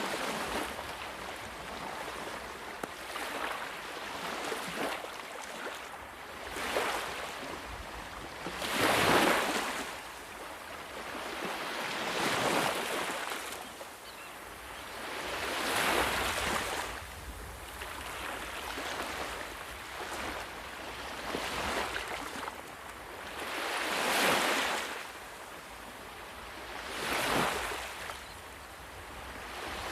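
Ocean waves breaking and washing on a shore, a steady rushing surf that swells loudest every three to four seconds as each wave comes in.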